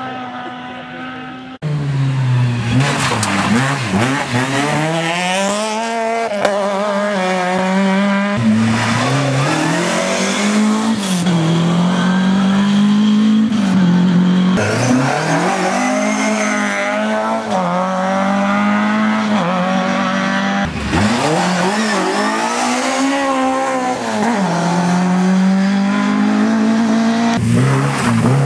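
Rally car engine being driven hard on a stage, revs climbing and dropping over and over through gear changes and lifts. A steady engine note at the start gives way suddenly to the revving after about a second and a half.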